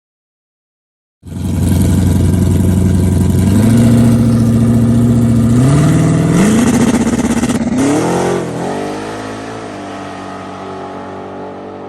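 After a second of silence, a loud engine starts up abruptly and runs with its pitch climbing in steps, holding at each level. About eight seconds in the pitch wavers, then the sound settles lower and quieter.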